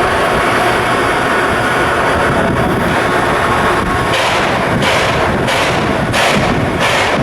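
Steady, loud shipyard work noise with a machine hum. From about four seconds in, a run of hissing bursts repeats roughly every 0.7 seconds.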